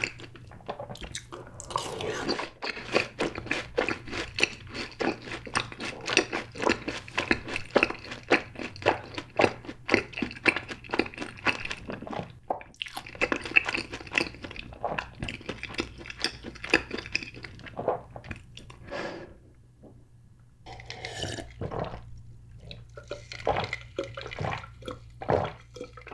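Close-miked chewing of fried cheese balls: dense, rapid crunching and crackling of the fried coating, with a brief pause about three-quarters of the way through before more scattered crunches.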